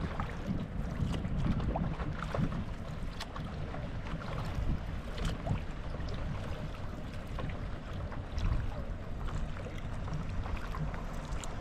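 Wind rumbling on the microphone over water splashing and lapping from paddle strokes on a paddle board.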